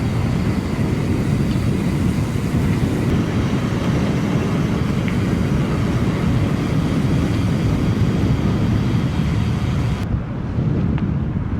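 Wind buffeting an action camera's microphone on a moving mountain bike: a loud, steady low rumble with hiss above it. The hiss drops away for a moment near the end.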